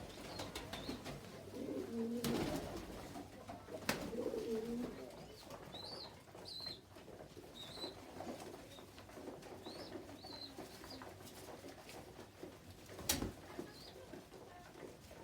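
Pigeons cooing in low, repeated calls, loudest in the first few seconds. Faint high chirps follow, with a few sharp knocks, one of them near the end.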